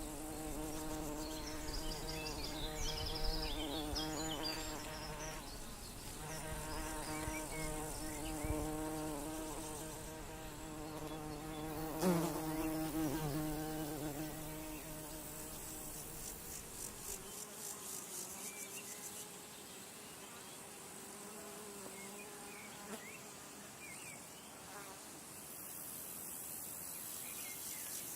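A flying insect buzzing close by: a steady hum that wavers in pitch, loudest and bending in pitch about twelve seconds in, then fading out a little over halfway through. High, rapid insect trills pulse in the background.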